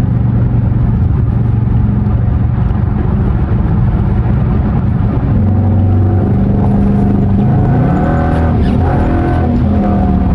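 5.7-litre HEMI V8 of a Dodge R/T running through an exhaust with its resonator and mid mufflers cut out, a loud steady drone while driving. Its pitch drops about five seconds in, then dips and climbs again near the end.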